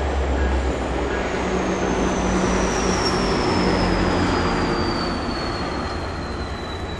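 GO Transit commuter train running past with a heavy, steady rumble, over which a thin high whine slowly falls in pitch.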